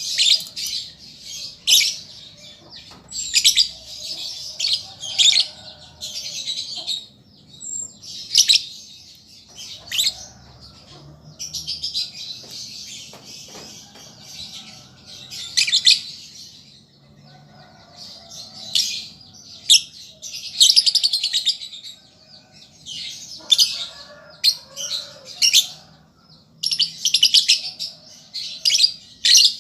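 Young lovebird's chattering song: repeated bursts of rapid, high-pitched chirps, each from about half a second to a few seconds long, with short pauses between.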